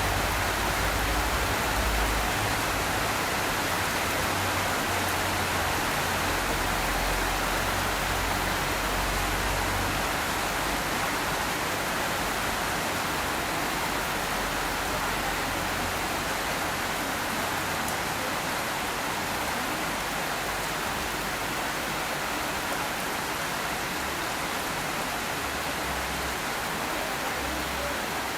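Steady rain falling, a dense, even hiss that doesn't let up. A low rumble comes and goes underneath during the first ten seconds and again near the end.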